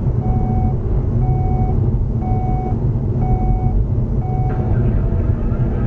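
Electronic warning beep repeating about once a second, each beep about half a second long, stopping after the sixth, over a steady low rumble of road and engine noise from a moving vehicle.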